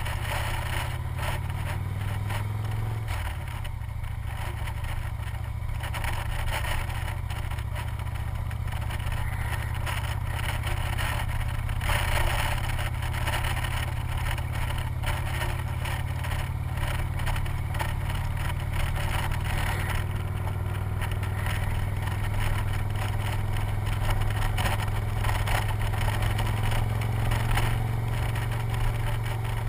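Victory motorcycle's V-twin engine running steadily under way, with wind rushing past the microphone; the engine note shifts once about three seconds in.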